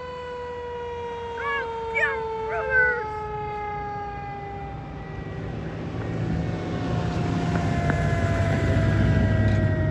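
Fire engine siren: one long wail slowly falling in pitch. Three short yelps come between about one and a half and three seconds in, and a low truck-engine rumble grows louder from about halfway.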